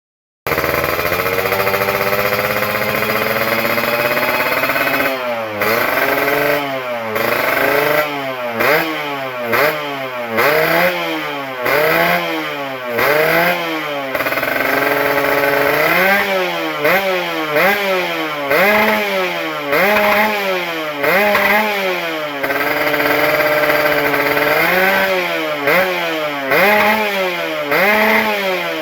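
Yamaha RX-King two-stroke single-cylinder motorcycle engine running through a short stainless ABRT20 aftermarket exhaust. It holds a steady speed for about five seconds, then is blipped repeatedly, about once a second, each rev rising and falling, with a few longer held revs between.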